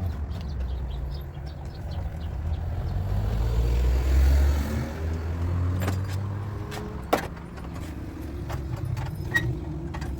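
Low rumble of a passing motor vehicle, swelling about four seconds in and then fading, with a few sharp clicks later on.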